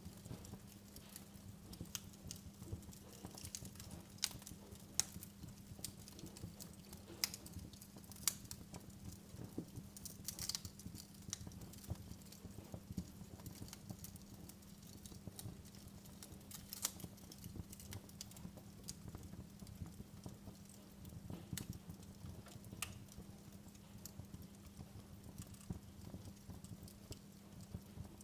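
Wood fire crackling in a fireplace: irregular sharp pops and snaps, a few louder ones standing out, over a low steady hum.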